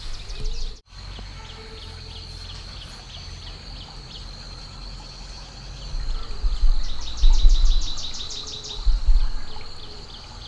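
Outdoor rural ambience of insects and birds: a steady high-pitched insect buzz with rapid repeated chirps over it, the chirping quickening into a trill in the second half. A low rumble swells and fades about two-thirds of the way through.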